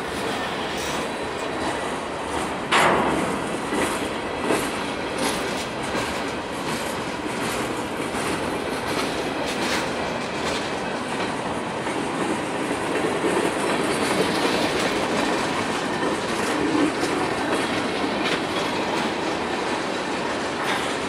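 Freight cars (covered hoppers, a gondola and tank cars) rolling past: steel wheels running on the rail with a clickety-clack over the rail joints. Several sharp clanks stand out, the loudest about three seconds in.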